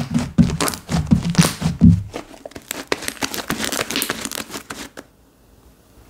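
Slime being squeezed and stretched by hand, making dense crackling and popping clicks with soft thuds in the first two seconds; the handling stops about five seconds in.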